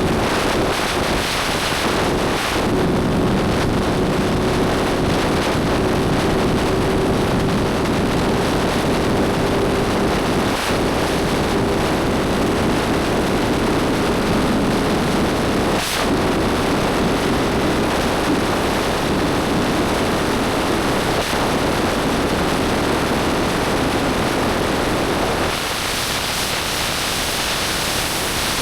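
Motorcycle engine pulling at a steady cruise under heavy wind noise, its note rising slowly as the bike gains speed. A brief knock comes about halfway through. The engine note fades out near the end, leaving mostly wind rush as the throttle is eased off.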